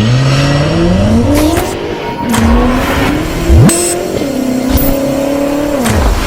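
BMW M6 engine and exhaust revving hard under acceleration: the pitch climbs, drops about two seconds in, climbs again and holds, then falls near the end. A short, very loud sharp bang comes about three and a half seconds in.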